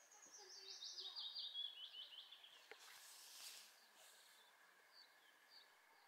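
A songbird singing faintly: a quick run of short notes that drops steadily in pitch and ends after about two and a half seconds. A short soft hiss of rustling follows about three seconds in, then a few scattered faint chirps.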